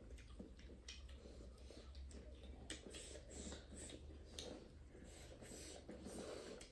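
Faint, irregular eating sounds: soft clicks and smacks of chewing duck curry, over a low steady hum.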